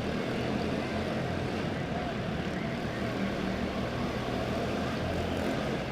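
Quarter midget race cars' small single-cylinder engines running at racing speed around a dirt oval, a steady drone with the pitch drifting slightly as the cars circle.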